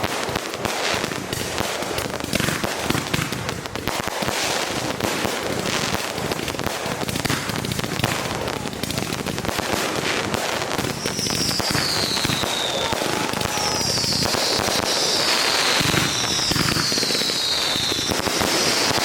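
Consumer fireworks going off in a dense, continuous run of crackles and pops. From a little past halfway, several high whistles fall in pitch, one after another.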